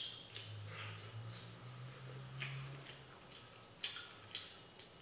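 Close-up wet chewing and lip-smacking while eating fried egg and rice by hand, with several short sharp smacks: one at the start, one about two and a half seconds in, and two near the end. A low hum sits under the first three seconds.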